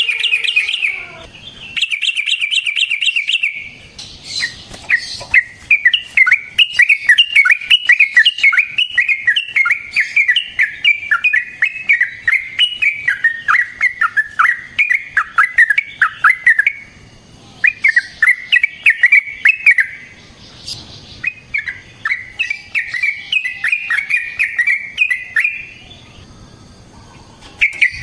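Yellow-vented bulbul (trucukan) singing loud, fast runs of short bubbling notes. Two short bursts come first, then one long unbroken run of about twelve seconds, then shorter phrases with brief pauses.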